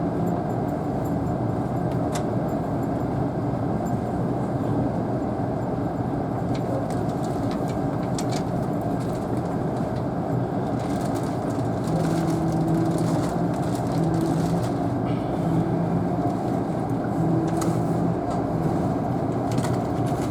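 Interior noise of a Tobu N100 series Spacia X express train: a steady rumble of the car on the rails with scattered light clicks. A low hum comes and goes in the second half.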